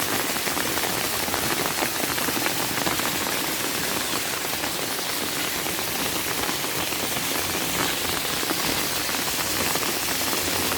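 Steady rain falling, a dense patter of countless drops without letup.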